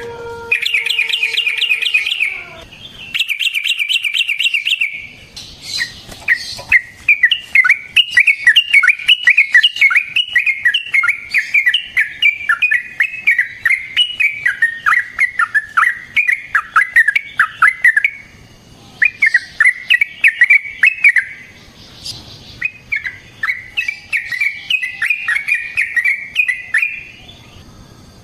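Yellow-vented bulbul (trucukan) singing: two short, rapid trills, then long runs of quick notes that rise and fall, broken by a couple of short pauses in the last third.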